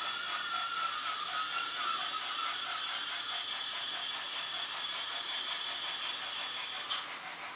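H0 model trains running on the layout: a fast, even clicking of small wheels and mechanisms on the track, with a thin high whine and a squeal that fades in the first couple of seconds. A single sharp click near the end.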